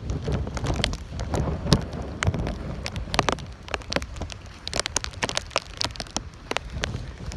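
Rain from a tropical storm, with many sharp, irregular taps of drops hitting close to the microphone over a low rumble of wind.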